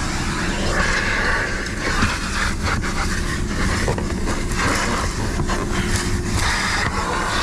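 Car on the move: a steady low rumble of engine and road noise with a few light clicks.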